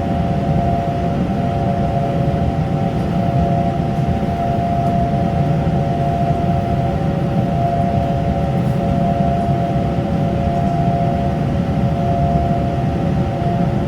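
Taiwan Railway train running: a steady low rumble with a steady, unchanging hum of several high tones over it.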